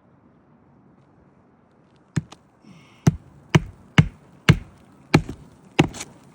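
Roofing hatchet driving a nail into an asphalt shingle: two light taps about two seconds in, then about six sharp blows roughly half a second apart.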